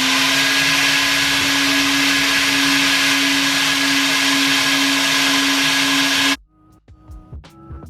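Coin-operated car-wash vacuum running, a loud steady rush of suction with a constant hum. It cuts off suddenly about six seconds in, and music with a beat follows.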